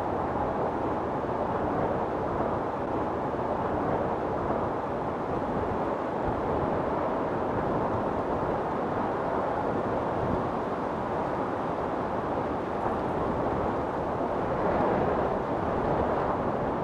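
Storm wind blowing steadily as an even, low rushing noise, swelling slightly near the end.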